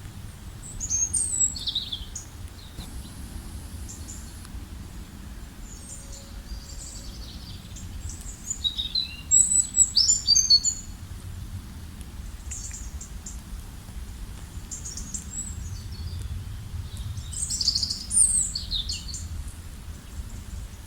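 Small birds singing and chirping in short, high-pitched phrases, loudest about a second in, around nine to ten seconds in, and again near the end, over a steady low background rumble.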